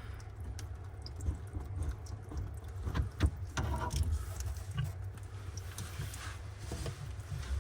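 Scattered clicks and knocks of tools and fittings being handled, the sharpest pair about three seconds in, over a steady low rumble.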